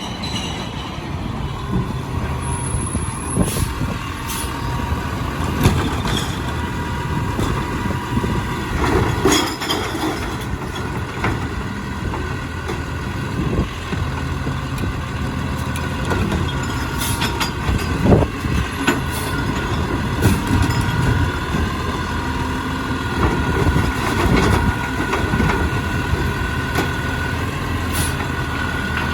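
Diesel engine of a Peterbilt 520 automated side-loader garbage truck running, with a steady whine on top that steps up in pitch about halfway through. Sharp knocks and clanks come every few seconds.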